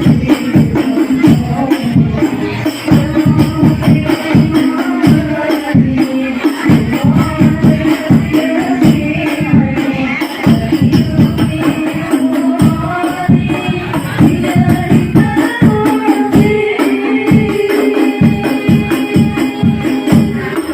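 Hadroh ensemble of rebana frame drums beating a fast, dense rhythm, with voices singing a chant-like melody over it, played loud through a PA sound system during a sound check.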